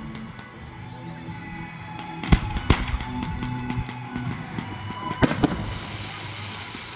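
Fireworks going off in a string of sharp bangs, the loudest a pair a little past two seconds in and another pair just after five seconds, over the show's music playing underneath.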